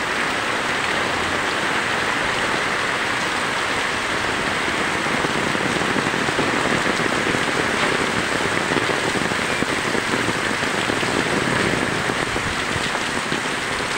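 Heavy rain pouring steadily onto a wet street, an even, dense hiss of drops.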